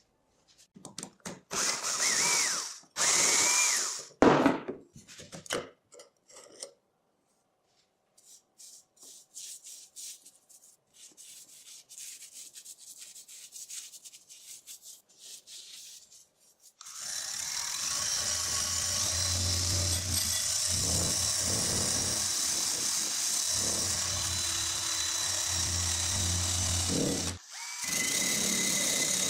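Handheld power tool run in several short bursts, each spinning up with a rising whine. Then comes a stretch of light scraping and clicking, and then the tool runs steadily for about ten seconds, cutting out briefly near the end and starting again.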